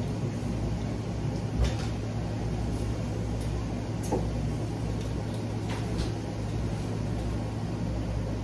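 Steady low hum with a few scattered clicks and knocks, the loudest about one and a half seconds in, from eating and handling seafood at the table.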